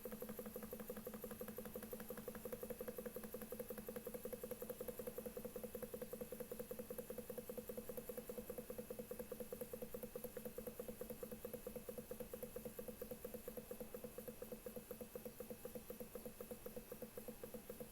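Small Stirling engine driving a generator, running steadily: a fast, even ticking patter over a steady hum. It grows slightly quieter near the end.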